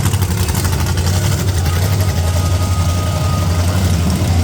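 Monster truck engine running with a steady, deep engine note, its pitch holding level without big revs.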